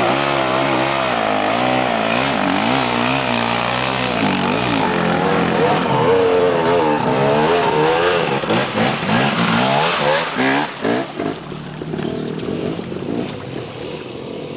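Trail motorcycle engines running and revving, their pitch rising and falling. About ten seconds in, the sound turns choppy and grows quieter.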